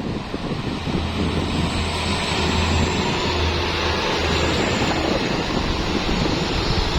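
Truck engine drone under a loud rush of tyre and wind noise, building over the first couple of seconds and then holding steady.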